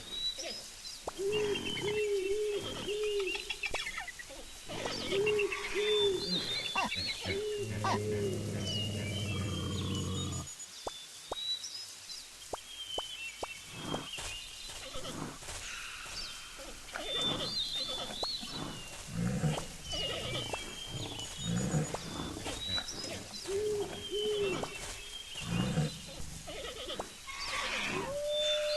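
Wild animal calls over high chirping birdsong: short arched calls in groups of two or three, a long low call about eight seconds in, and many short clicks and knocks in the second half.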